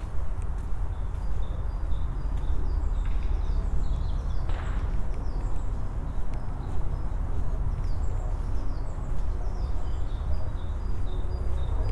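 Small birds chirping in short repeated calls, with footsteps on a path and a steady low rumble underneath; a brief rustling swish about four and a half seconds in.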